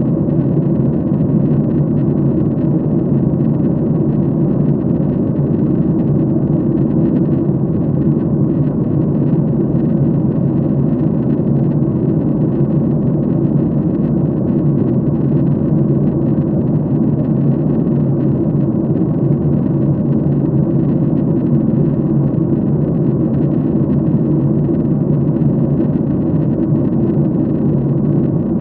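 Steady airliner cabin noise in flight: a constant low rumble of engines and rushing air heard from inside the cabin at a window seat.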